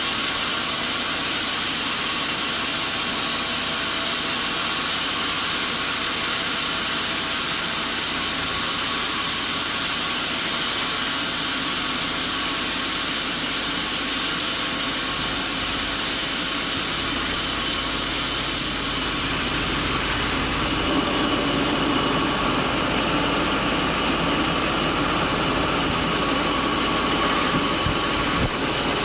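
Sawmill machinery running steadily, a constant mechanical noise with a little more low rumble about two-thirds of the way in.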